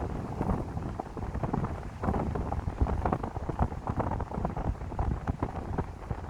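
Wind gusting through a pine grove and buffeting the microphone: a low, uneven rumble with irregular crackling.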